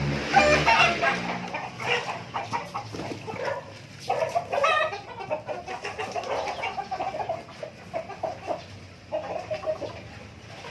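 A flock of Philippine native chickens clucking, with many short, overlapping calls, while they are being fed.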